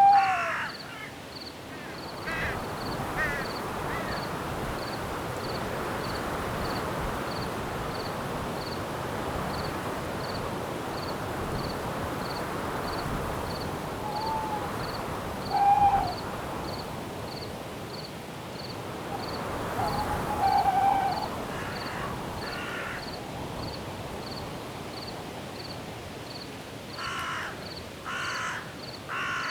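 Night forest ambience: wind rushing steadily through the trees, with a cricket chirping in a steady pulse of a little under two chirps a second. Harsh cawing bird calls come near the start and again near the end, and short hooting owl calls come near the start and around the middle.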